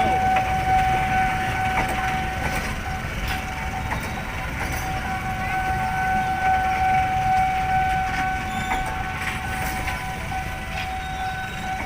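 Long freight train rolling through the station: a steady low rumble with faint wheel clicks, under a continuous high-pitched whine that holds one pitch almost throughout and shifts slightly near the end.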